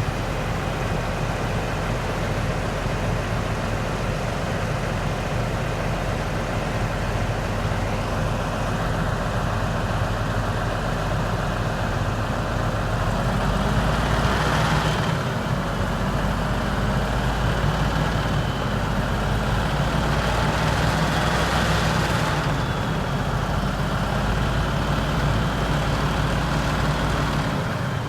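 Cummins 400 diesel engine of a 1984 International S 2200 truck running steadily, with two brief swells in sound about halfway and about three quarters of the way through.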